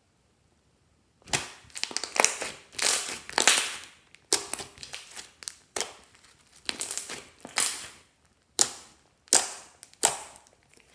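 Hands squeezing and poking clear slime, giving sticky pops and crackling clicks in quick clusters, then a few single pops near the end.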